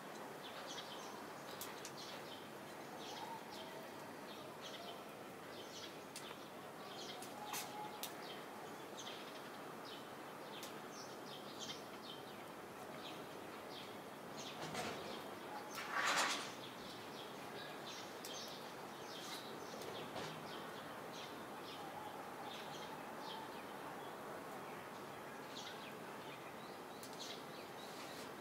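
Small birds chirping in short repeated calls over steady outdoor background noise, with one brief louder burst of noise about halfway through.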